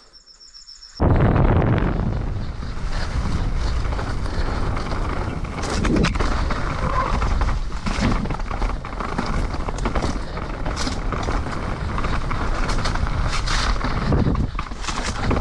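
Mountain bike being ridden fast down a wet trail, heard on the action camera's microphone: a loud, steady rush of wind noise and tyres on wet ground, with frequent rattles and knocks from the bike over rough ground. It starts suddenly about a second in, after a brief quiet moment with faint beeps.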